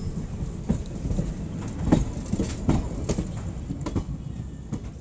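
Passenger train running, heard from an open coach door: a steady low rumble with irregular sharp clacks of the wheels over rail joints and points, the loudest about two seconds in.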